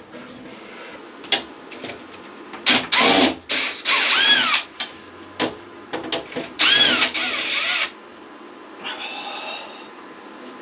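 Power drill run in three short bursts, its motor pitch climbing and dropping with each squeeze of the trigger, followed by a fainter, shorter run near the end.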